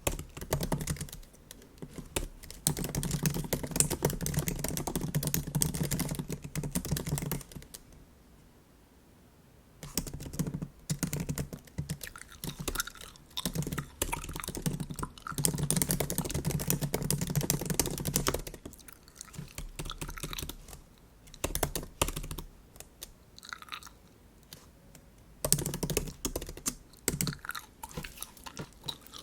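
Typing on a MacBook keyboard in bursts of rapid key clicks broken by short pauses, with one longer quiet gap about eight seconds in; bubble gum chewing close to the microphone in between.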